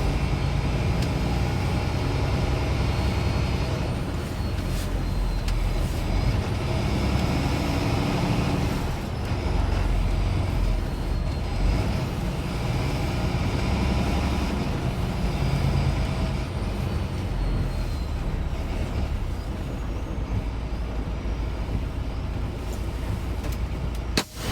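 Semi truck driving: steady engine and road noise, with a brief dropout near the end.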